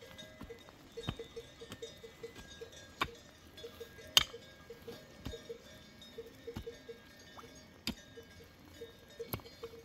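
Bells on livestock clinking in quick, uneven runs. Scattered sharp knocks fall among them, the loudest about four seconds in.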